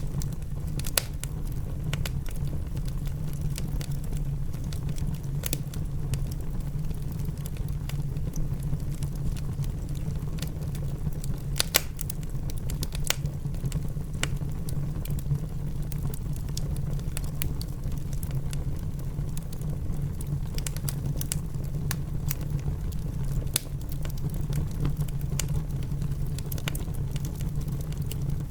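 Wood fire crackling in a fireplace, with scattered sharp pops over a steady low rumble of rain.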